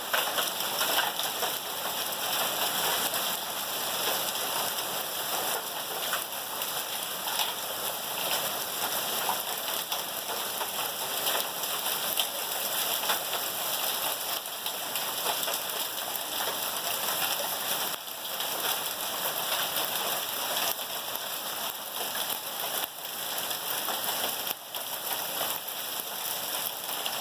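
Hailstorm: hailstones and heavy rain pelting down, a dense steady hiss with many sharp individual ticks of stones striking.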